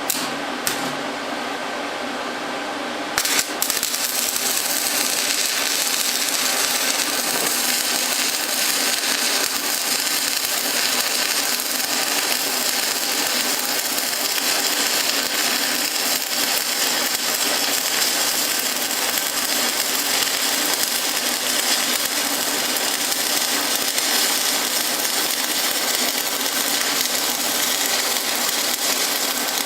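Stick-welding arc from an Everlast inverter welder: a couple of short crackles, then the arc strikes about three seconds in and settles into a steady crackling sizzle as a bead is run.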